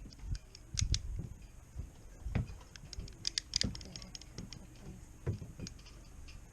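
PVC pipe cutter clicking repeatedly as it is squeezed on a rope jib sheet, with a few dull knocks of handling. The blade struggles with the rope, so the cut goes badly.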